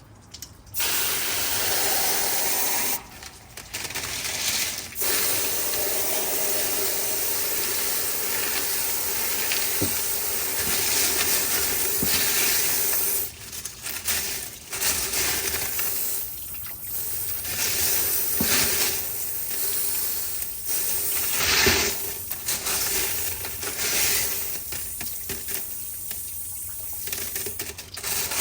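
Running water splashing as tumbled black opal rough and its grit slurry are rinsed, with stones knocking together now and then. The water stops and starts several times.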